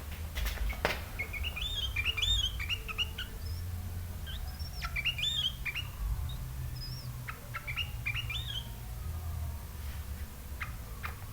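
Sooty-headed bulbul singing three short runs of quick, bubbly, rising-and-falling whistled notes. There are a couple of sharp clicks in the first second and a steady low hum underneath.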